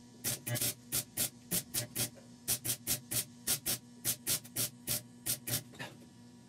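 Welding arc struck in short repeated pulses, about three or four a second, as rust pin holes in sheet metal are filled spot by spot, over a steady electrical hum.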